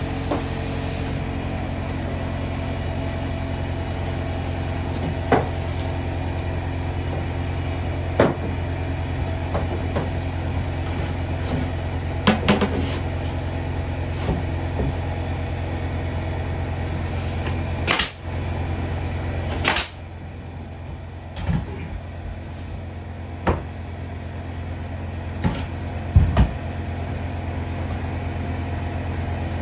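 A steady engine drone with scattered knocks and clicks over it. The drone gets a little quieter about two-thirds of the way through.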